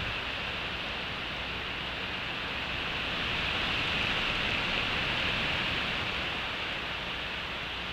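Rain falling with a steady hiss.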